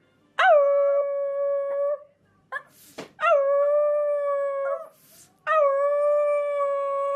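A dog howling three times, each howl a long, steady held note with a short rise at its start, with a brief rush of breath or noise between the second and third.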